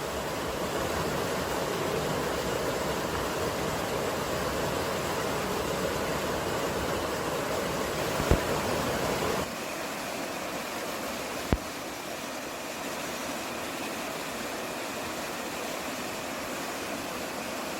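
Steady rushing noise of a mountain field recording. About nine and a half seconds in it changes abruptly to a thinner hiss with less low rumble, and there are two short sharp clicks, one just before and one just after the change.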